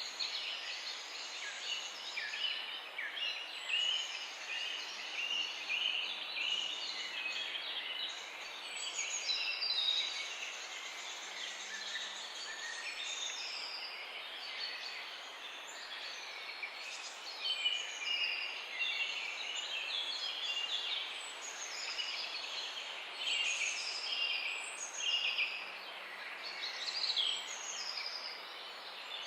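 A dawn-chorus style mix of several songbirds singing at once, quick overlapping chirps and warbled phrases, over a steady background hiss.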